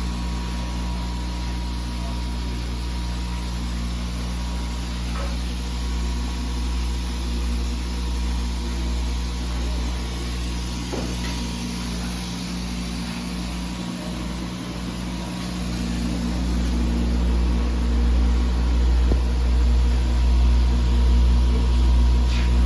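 Steady mechanical hum with a faint high tone, the kind made by a laser cutting machine running with its fans and pumps; it grows louder about sixteen seconds in.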